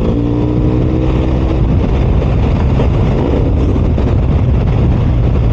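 BMW R 1250 RS boxer-twin motorcycle running on the road, heard from the riding position with a steady heavy rumble of engine, wind and road noise. The engine note falls slightly and fades during the first couple of seconds.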